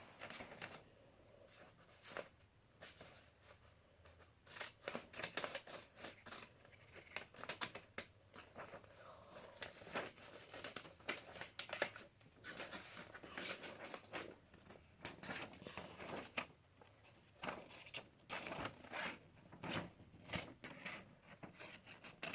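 Scissors snipping paper in irregular cuts, with paper rustling and crinkling as it is handled.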